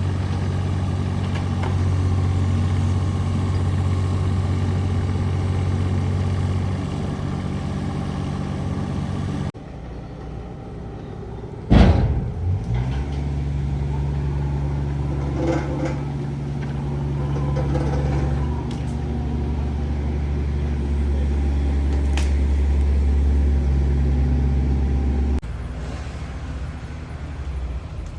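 Heavy machinery engines running steadily at a low hum. The engine note changes abruptly about ten seconds in and again near the end, and there is a heavy thud about twelve seconds in.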